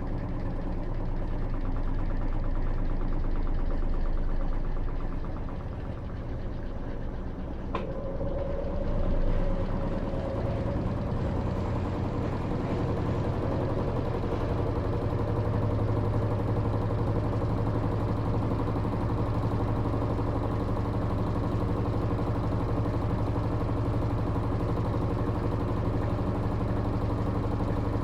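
Electrolux LT13B top-load washing machine running with a steady motor hum. A single click comes about eight seconds in, after which a steadier, stronger motor tone sets in.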